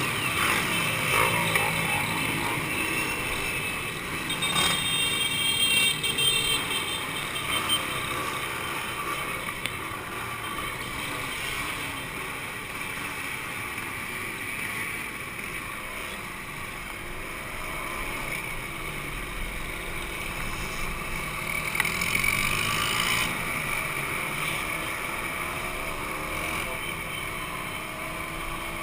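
Two-stroke motorcycle engines running, their pitch rising and falling as they are revved several times.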